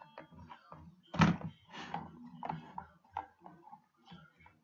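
Plastic knocks and clatter from handling a toy birdcage while a toy bird is set on its swing, with one loud thunk about a second in.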